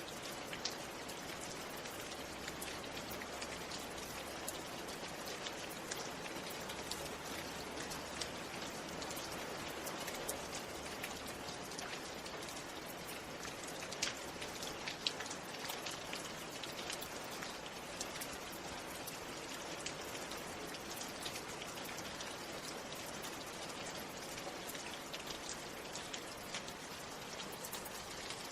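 Steady rain falling, a continuous hiss with many individual drops ticking sharply throughout.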